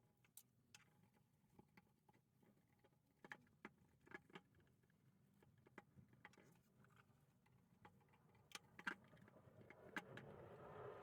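Faint, scattered clicks and taps, a few louder ones in pairs, over near silence; in the last second a steady noise begins to rise.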